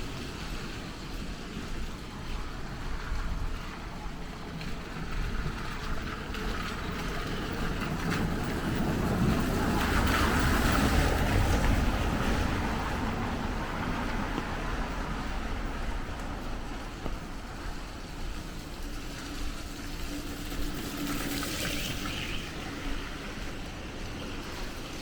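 Rainy street ambience: a steady wash of rain and wet-street noise, swelling about ten seconds in as something, most like a vehicle on the wet road, passes close by, then settling back.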